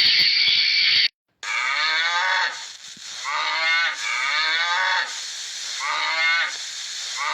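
A steady hiss that cuts off abruptly about a second in, then an animal calling about four times, each call drawn out and falling in pitch.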